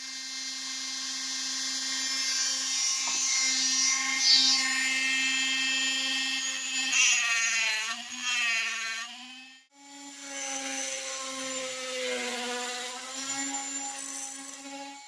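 Small high-speed rotary tool cutting a copper sleeve, with a steady whine whose pitch sags as the wheel bites into the metal. It stops briefly about ten seconds in, then runs again and sags once more under load.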